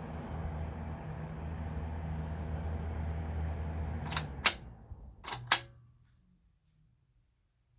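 1978 SHARP VS-253BL ventilation fan running with a steady motor hum, then four sharp clicks in two pairs as it is switched off, and the motor runs down to near silence. The owner suspects its capacitor is slightly weak.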